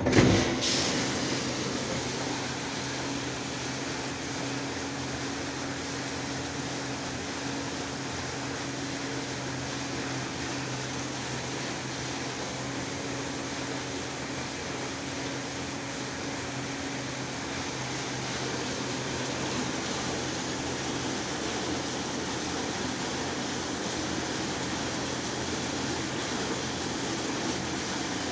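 Fagor FI-80 dishwasher running: its circulation pump hums steadily while water sprays and splashes inside the tub. It comes on suddenly with a loud jolt at the very beginning.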